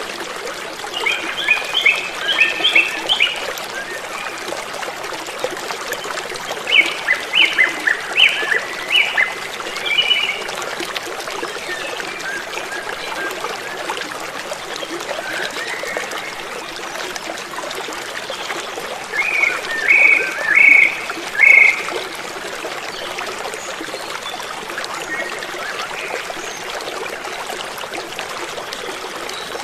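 Creek water running with a steady rushing flow. Three times, a small animal calls in short runs of quick high chirps.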